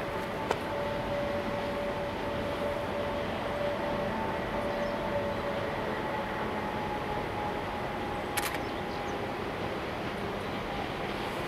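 Distant Ōigawa Railway Ikawa Line train running along a viaduct: a steady rumble with a faint whine. A sharp click comes about half a second in and another near the end.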